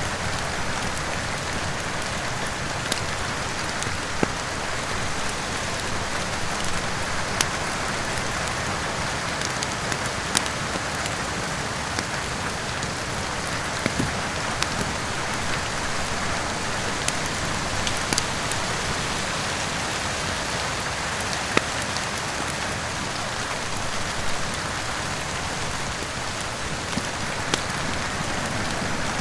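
Steady heavy rain mixed with a wood fire in a fireplace, with scattered sharp crackles and pops every second or few.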